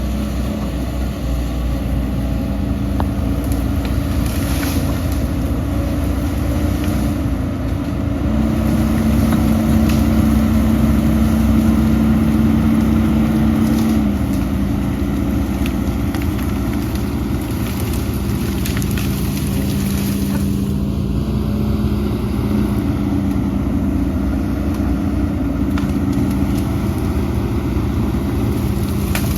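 Diesel engine of heavy earthmoving machinery running steadily, its pitch rising about eight seconds in and holding higher for some six seconds before dropping back.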